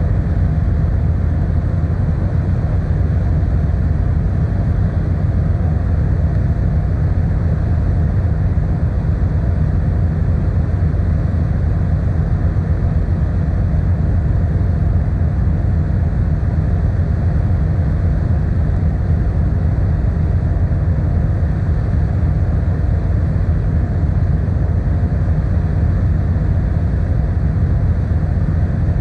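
Ferry engines and hull droning steadily: a constant low hum and rumble that does not change.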